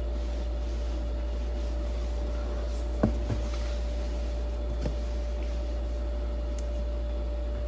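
Cardboard box being handled and shifted, with a sharp knock about three seconds in and a lighter one near five seconds, over a steady low hum.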